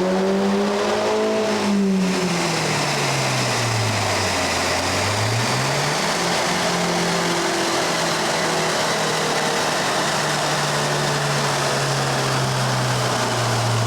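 Mini Cooper S four-cylinder engine breathing through a freshly fitted cat-back exhaust on a rolling-road dyno: the revs drop over the first few seconds, pick up again, then hold and ease slowly down, over a steady hiss.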